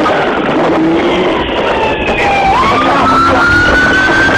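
Police siren wailing, its pitch sliding down, then climbing about halfway through and slowly rising, over loud vehicle engine and road noise.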